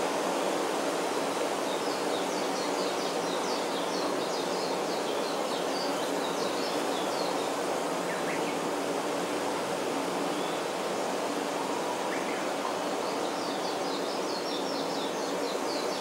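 A small songbird sings two rapid, jumbled twittering phrases of about three seconds each, one a second or so in and one near the end, with a couple of faint single chirps between them. Under it runs a steady rushing noise.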